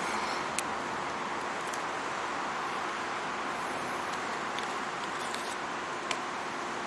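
Steady rushing street and moving-air noise, with a few brief sharp clicks scattered through it.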